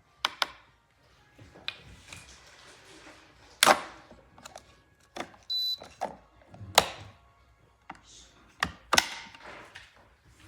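Irregular sharp clicks and knocks, about ten of them, the loudest a little before 4 s and near 7 s in, as a single-serve coffee maker is handled; about halfway through, a short steady hiss with a high tone.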